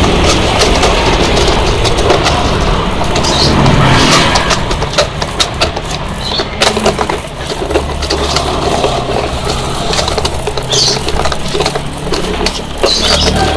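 Truck engine running loudly with a steady low rumble, broken by many short clicks and rattles.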